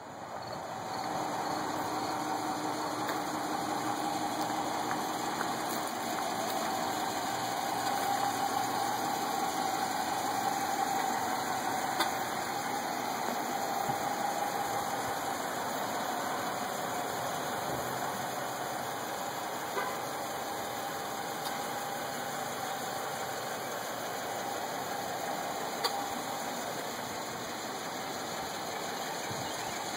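Dodge Charger police car idling steadily, heard from close by as a low, even running noise with a faint hum.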